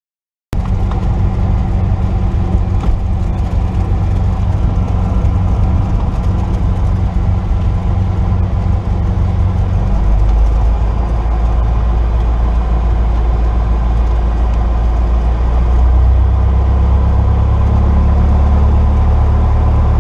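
Cessna 172's piston engine running steadily at low power, starting abruptly just after the beginning. Its low drone changes note about halfway through and again near the end as the power setting shifts.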